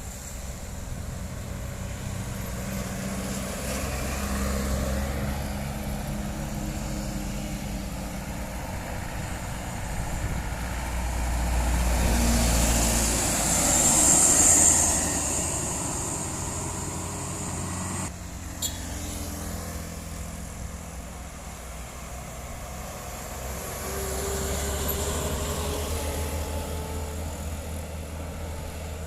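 Road traffic: motor vehicles rumbling past, one swelling to its loudest about 14 seconds in and another about 25 seconds in, with a sharp click about 18 seconds in.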